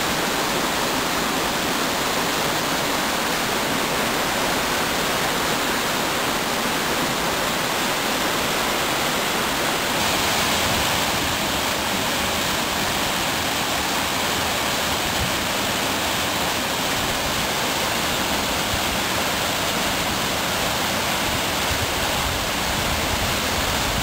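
Waterfall near peak spring flow: a steady, even rush of falling water.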